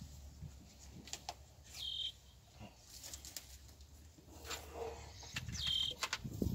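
A bird gives a short, falling chirp twice, about two seconds in and again near the end, over faint rustling and scraping as a gloved hand pulls dry twigs and caked gunk out of the machine's frame.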